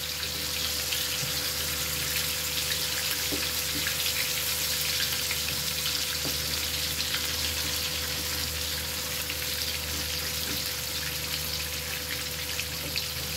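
Hamburger patties frying in shallow oil in a frying pan over a mild flame: a steady sizzle with fine crackling.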